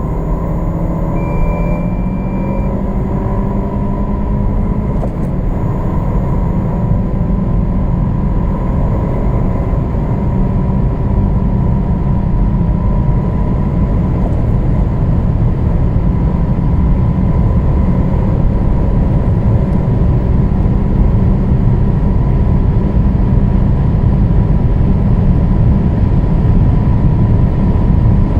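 Car accelerating at full throttle at high speed: a steady engine drone under heavy road and wind rumble, growing slowly louder.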